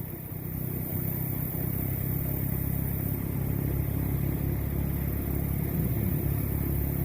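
An engine running steadily with a low hum, getting louder over the first second or so and then holding even.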